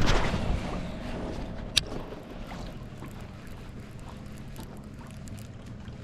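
Wind and water noise around a fishing kayak, with a short rush of noise at the start and a single sharp click just under two seconds in.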